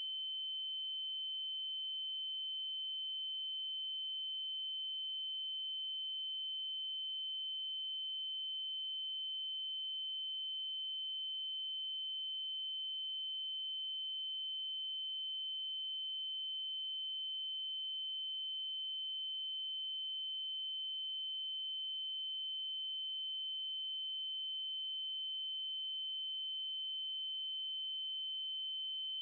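Steady electronic 3072 Hz triangle-wave tone, one unchanging high-pitched pitch with faint higher overtones.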